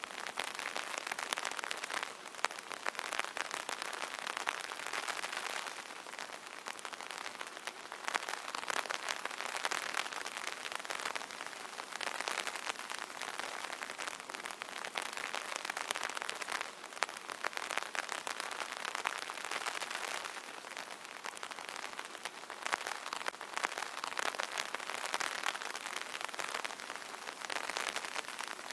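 Light rain falling on an umbrella canopy: a dense, steady spatter of many small sharp drop taps that swells and eases slightly every few seconds.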